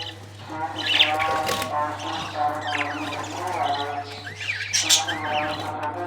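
Parrots chirping and squawking in repeated short calls, with sharp high chirps and quick rising-and-falling whistles. A steady low hum runs underneath.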